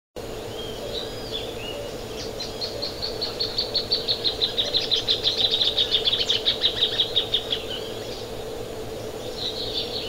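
Plain thornbird singing: a few short calls, then a long, rapid series of sharp notes from about two seconds in to nearly eight seconds, growing louder and drifting slightly lower in pitch. A second series begins near the end, over a steady faint hum.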